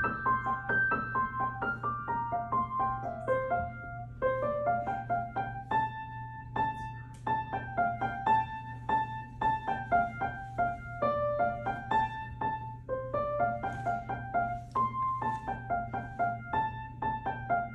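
A child playing a simple melody on a piano, mostly one note at a time at a moderate, even pace, in phrases that step down and climb back up, with a low steady hum underneath.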